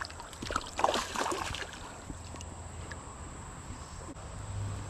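Creek water splashing and sloshing: several short splashes in the first second and a half, then a steady wash of water noise.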